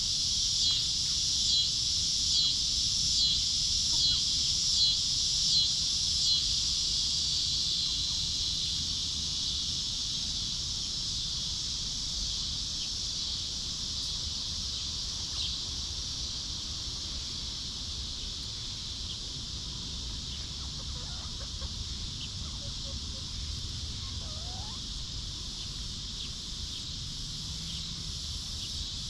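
A loud, steady insect drone, pulsing about once a second for the first six seconds, then holding steady and slowly fading. A few faint short chicken calls come in around the middle.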